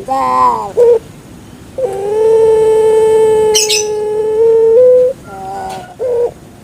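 Puter pelung dove (long-voiced domestic dove, Streptopelia risoria) cooing: a short rolling note, then a long drawn-out steady coo held for about three seconds that lifts slightly at its end, followed by a few short notes. A brief crackle sounds partway through the long coo.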